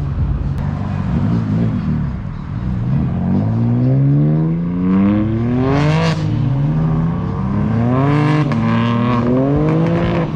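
A car engine accelerating hard through the gears: its pitch climbs steeply, drops at each upshift and climbs again, about three pulls.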